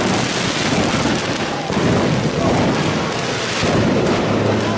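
Fireworks going off in the street: a loud, continuous rumble with dense crackling throughout.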